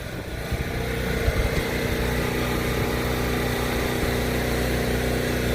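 Gas-engine pressure washer running steadily, with a broad hiss of spray over the engine note.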